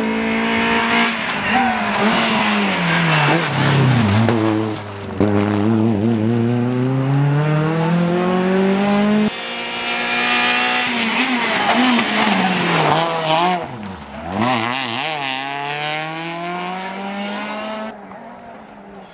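Rally car engines at full throttle, the pitch climbing steadily and dropping abruptly at each upshift. In the middle the revs fall and blip through downshifts under braking, then climb again as the car accelerates away.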